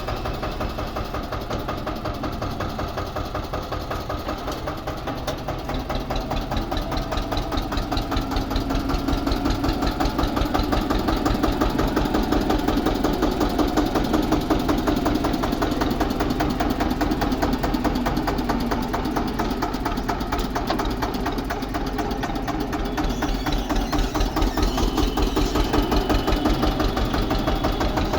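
Eicher 242 tractor's diesel engine running with a fast, steady knocking beat. It grows louder about seven seconds in and again near the end.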